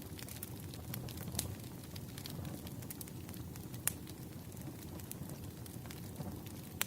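Wood fire crackling: irregular sharp pops and snaps over a low steady rumble, with a few louder pops about a second and a half in, near four seconds, and near the end.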